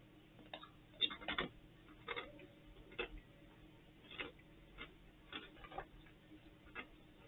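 Faint, irregular crunching of a person chewing a popped crisp: short crackly clicks, one or two a second, some in quick clusters.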